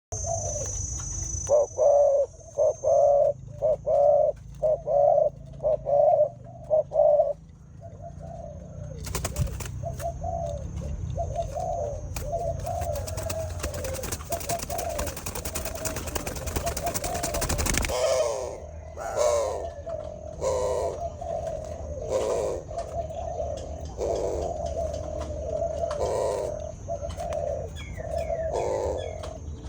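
Spotted doves (derkuku) cooing during courtship and mating, a rapid run of loud, evenly spaced coos for the first seven seconds, then softer, more uneven cooing. A hissing noise runs under the calls from about nine seconds to eighteen seconds.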